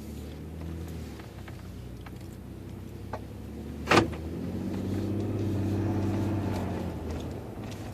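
Ford EcoBoost turbocharged engine running, with a single sharp click about four seconds in. The engine then grows louder for a couple of seconds and settles back.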